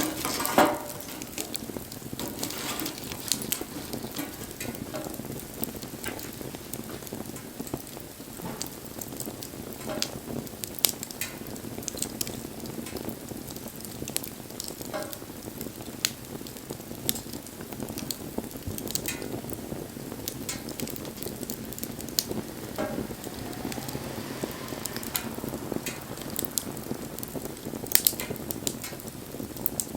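Wood bonfire burning, with a steady hiss and frequent sharp crackles and pops, two louder pops about half a second in and near the end.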